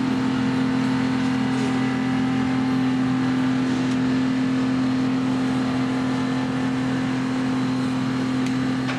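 EMD SW1200 switcher locomotive's 12-cylinder 567 diesel engine running steadily, a constant low drone that holds one pitch.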